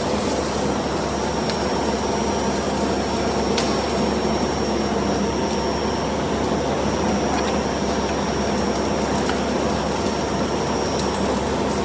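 Steady hum of tyre factory machinery, with a thin high whine that cuts off near the end and a few faint clicks.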